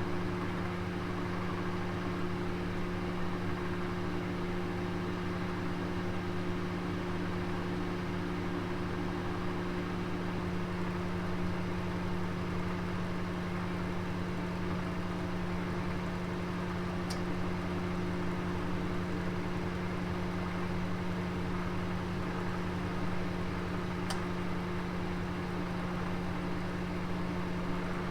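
Oven running with a roast inside: a steady hum with an even hiss, and two faint ticks a few seconds apart in the second half.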